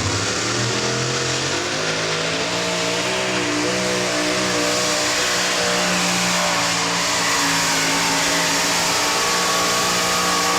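Modified pulling tractor's engine running hard at full throttle during a pull. It climbs in pitch over the first couple of seconds, then holds a high, steady note with a slight waver.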